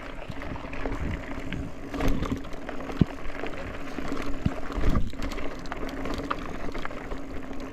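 Mountain bike in motion on a dirt trail: steady rough rolling noise from the tyres, with scattered sharp knocks and rattles from the bike over bumps.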